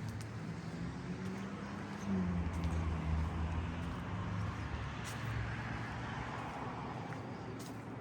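Street traffic: motor-vehicle engines running with a steady low hum that swells for a few seconds in the middle as a vehicle passes, with a few faint clicks.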